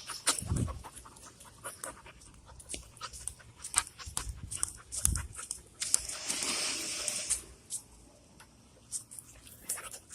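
A dog panting, with many short clicks and scuffs and a brief hissing rush about six seconds in.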